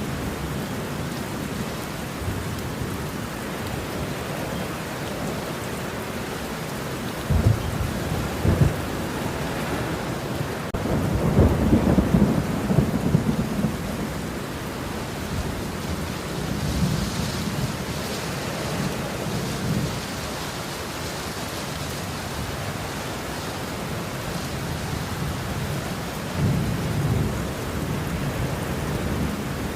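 Steady heavy rain with rolling thunder: two sharp claps about seven and eight and a half seconds in, then a long loud rumble a few seconds later, and softer rumbles near the middle and the end.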